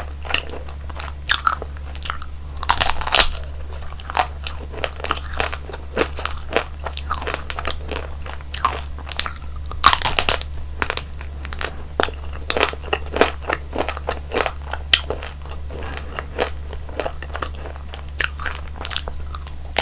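Close-miked eating of crunchy jelly ice cream desserts: repeated crisp bites and chewing crunches in an irregular run, the loudest bites about three and ten seconds in, over a steady low hum.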